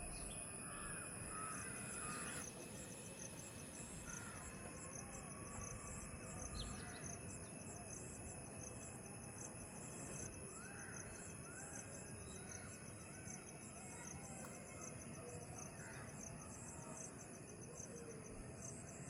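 Insects chirring steadily in a rapid, even pulse, with a constant high whine, while birds give short scattered calls.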